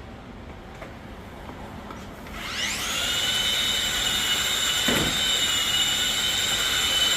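Cordless cleaning machine's electric motor switched on about two seconds in, spinning up with a rising whine and then running at a steady high pitch.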